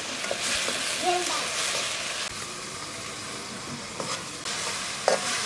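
A spatula stirring onions, green chilies and spices frying in a wok over a wood fire, the contents sizzling, louder in the first two seconds. Two short knocks near the end, the spatula striking the pan.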